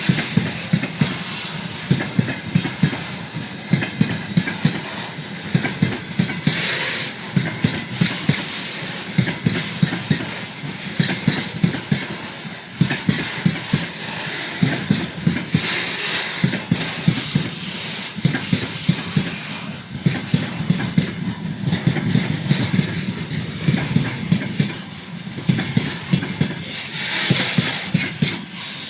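Freight train wagons rolling past, their wheels clacking over the rail joints in a steady repeating rhythm over a continuous rumble.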